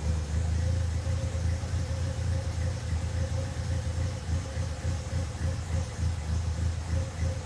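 Toyota AE86's four-cylinder engine idling steadily: a low, fast-pulsing rumble.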